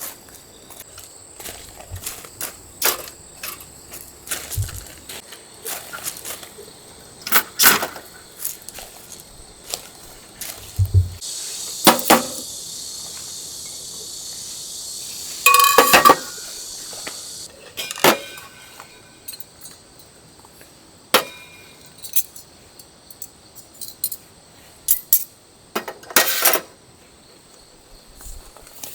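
Camping gear being handled: scattered metal clinks, clanks and taps throughout, with a steady hiss for about five seconds near the middle.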